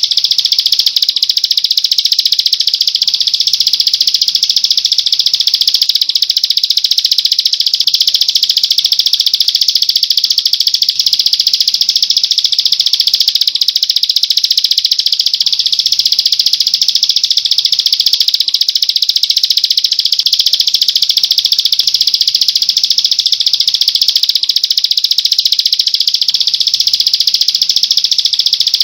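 Songbird recording: a continuous, very fast rattling trill, high-pitched and unbroken, of the kind played as 'masteran' to teach cage birds to sing.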